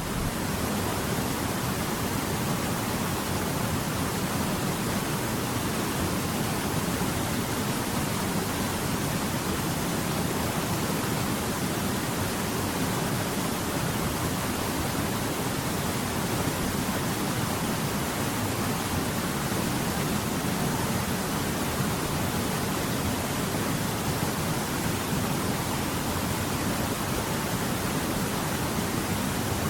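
Rushing water: a steady, even hiss with no distinct events.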